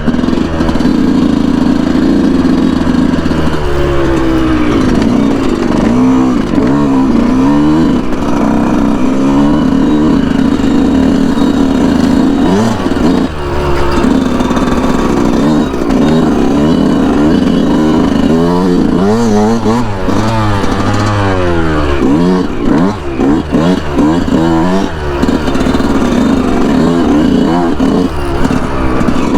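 Yamaha YZ125's 125 cc single-cylinder two-stroke engine revving up and down again and again as the dirt bike is ridden hard along a trail.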